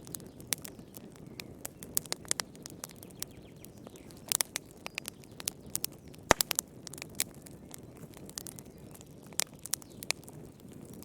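Fire crackling in a fireplace: irregular sharp pops and snaps over a low, steady rush of flames, with the loudest pop about six seconds in.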